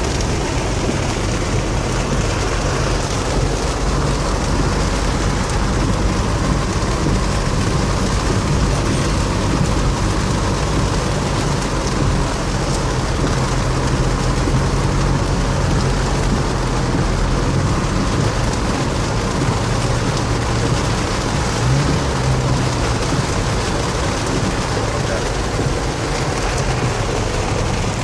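Suzuki Vitara driving through flood water: a steady rush of water against the car, with the engine's low hum running beneath it.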